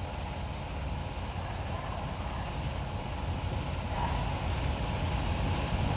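Low rumble of a departing Amtrak passenger train, growing steadily louder.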